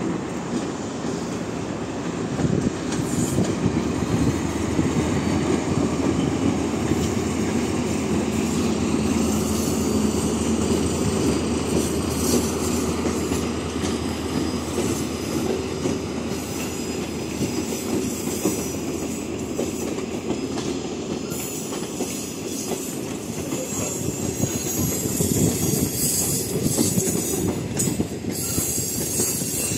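TEM18V shunting diesel locomotive passing slowly at the head of a passenger train, its diesel engine running, followed by the passenger coaches rolling by with steady wheel-on-rail noise.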